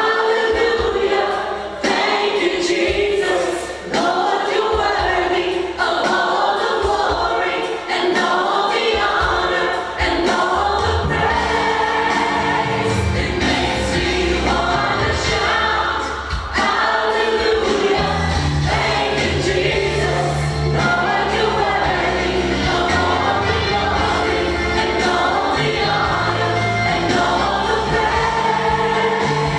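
A choir singing a gospel-style worship song over instrumental backing with a steady beat.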